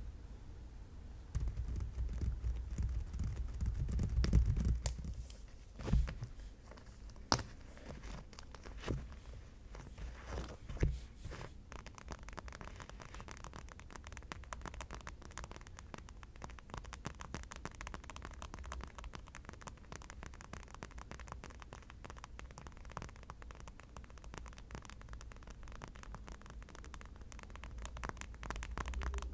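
An object handled close to the microphone with a low rumble, then a handful of separate sharp taps. About twelve seconds in, these give way to a continuous fast run of fine scratching and tapping.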